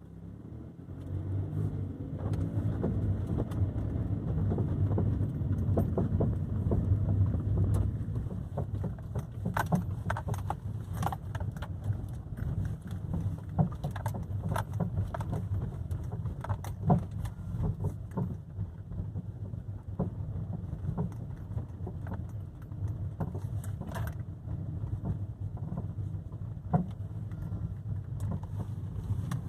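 Inside a 2012 Kia's cabin on the move: steady engine and road rumble, rising as the car picks up speed in the first few seconds. Scattered short knocks and rattles follow from about ten seconds on. This is the rattling and clunking over bumps that the owner suspects comes from the right front.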